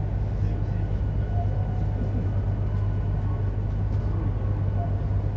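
Running noise inside a JR Hokkaido 731-series electric train car (MoHa 731-109) under way: a steady low drone of traction motor and wheels on rail. This car's motor on the Otaru-side bogie makes an abnormal roar resembling an old nose-suspended (tsurikake) drive, the fault that the recording documents.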